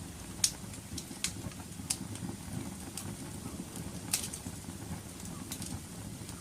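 Wood fire burning in a fireplace: a steady low rumble of flames with irregular sharp crackles and pops, the loudest pops about half a second in and just after four seconds in.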